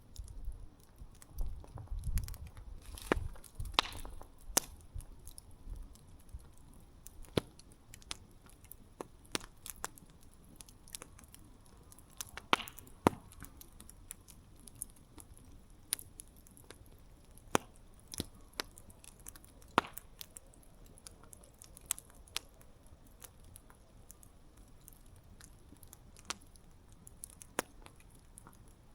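Campfire crackling: wood popping and snapping in irregular sharp cracks, a handful of them louder, over a soft hiss of the flames. A low rumble runs under the first few seconds.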